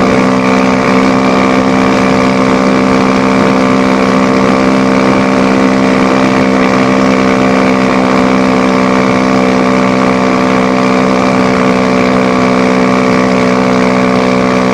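Apollo dirt bike engine running in top gear at a steady speed, holding one unchanging pitch throughout.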